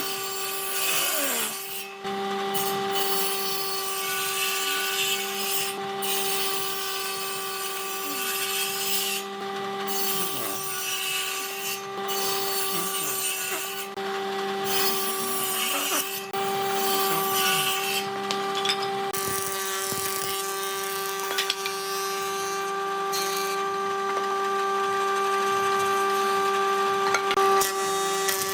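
Woodworking power tool running with a steady whine while it works wood. The rasping noise of the wood being worked comes and goes in spells of a few seconds.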